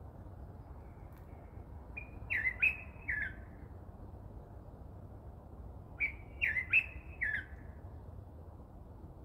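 A bird calling twice, each time a quick run of about four short falling chirps, the two runs about four seconds apart, over a steady low rumble.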